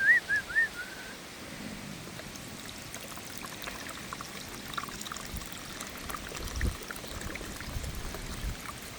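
Water pouring and trickling steadily, opened in the first second by a few short high chirps.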